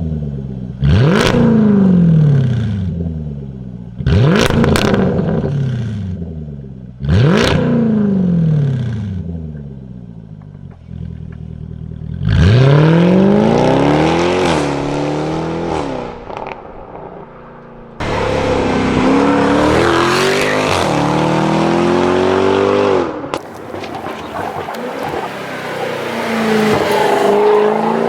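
Jaguar F-Type R's supercharged 5.0-litre V8 through a Fi valvetronic exhaust, revved sharply three times about three seconds apart and then held in a longer rev. Later the engine runs under way, its speed rising and falling.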